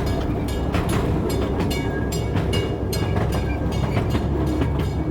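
Train running on rails: a steady low rumble with repeated sharp clicks.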